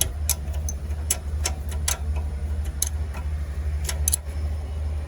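Irregular sharp metallic clicks of a hand tool tightening a bolt on a generator, over a steady low hum.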